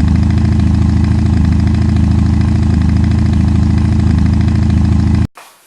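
Motorcycle engine running steadily at a fast pulsing idle, cutting off suddenly about five seconds in.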